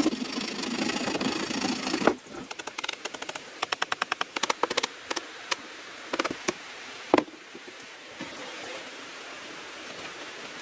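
Hand work on bamboo: a rasping scrape for about two seconds, then a quick run of sharp taps and a handful of separate knocks, the loudest about seven seconds in.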